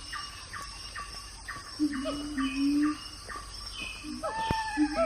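Birds calling: a regular series of short chirps, about two to three a second. Low held cooing notes come about two seconds in, and a longer call that rises then falls near the end.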